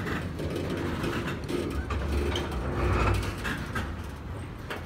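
Freight wagons of a long train rolling slowly along the rails: a steady low rumble of wheels with intermittent metallic creaks and rattles from the running gear.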